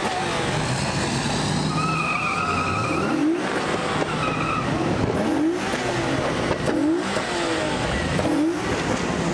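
A car doing a burnout: the engine revs up again and again, about once a second, over the steady hiss of spinning tyres, with a high tyre squeal about two seconds in and again about four seconds in.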